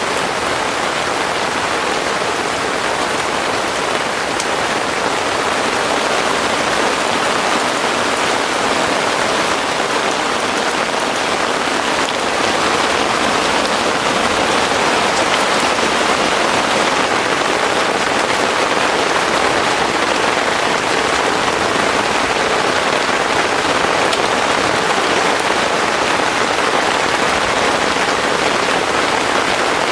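Heavy rain falling steadily in a dense, even patter, growing slightly heavier about twelve seconds in.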